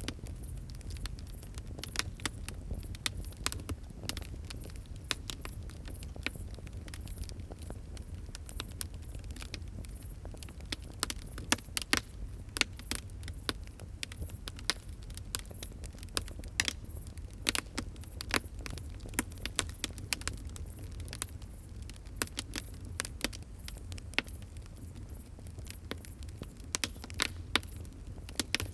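Fire crackling: frequent sharp pops and snaps, several a second and some much louder than the rest, over a steady low rumble.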